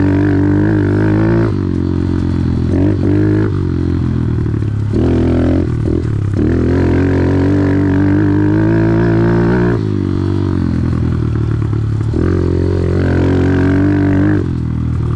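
Engine of an off-road vehicle running under load as it is ridden on a trail. The throttle is eased off and opened again several times, so the engine note dips and comes back up.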